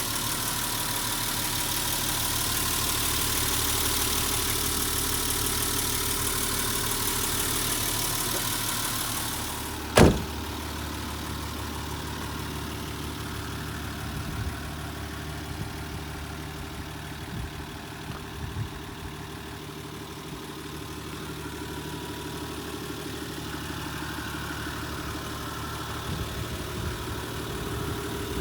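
Nissan Civilian bus's TD42 4.2-litre straight-six diesel idling steadily, with a loud hiss over it for the first ten seconds. About ten seconds in comes a single sharp thump, after which the engine sounds quieter, with a few light knocks.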